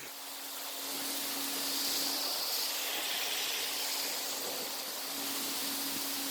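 Heavy rain pouring down with rainwater running off, a steady even hiss that builds slightly over the first second and then holds.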